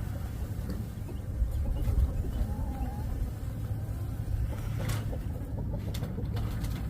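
Outdoor ambience: a steady low rumble with one short bird call about two and a half seconds in.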